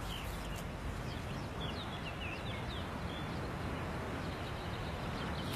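Outdoor ambience: a steady hiss with scattered short, high bird chirps, thickest in the first half and again near the end.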